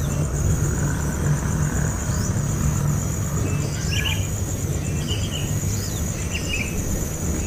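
Short bird chirps, about four, with quick pitch slides, over a steady pulsing high insect trill and a low rumble.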